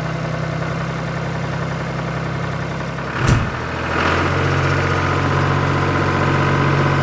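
Small diesel engine of a DIY mini tractor idling steadily, with a single short knock about three seconds in, after which the engine runs louder.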